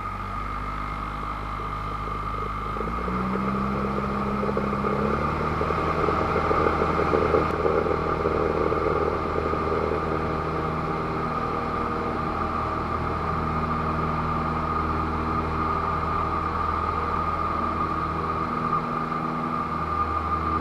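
Cessna 172's piston engine and propeller at full takeoff power, heard from inside the cockpit. About three seconds in, the engine note steps up in pitch and grows louder as the revs climb, then holds steady.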